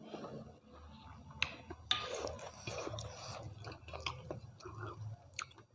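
Close-up chewing of mutton curry and rice: wet mouth smacks with a few sharp clicks, the sharpest about a second and a half and two seconds in.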